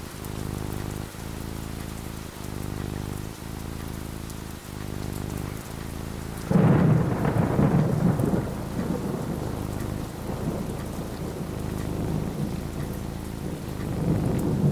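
Steady rain with a loud clap of thunder about halfway through, rumbling on for a couple of seconds before fading back under the rain.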